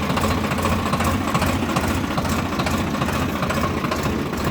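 Swaraj tractor's diesel engine running steadily at a low, even speed.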